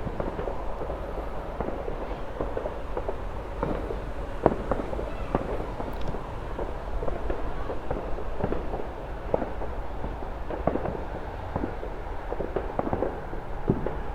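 Distant fireworks going off all around, many scattered bangs and crackles at irregular intervals over a steady low rumble.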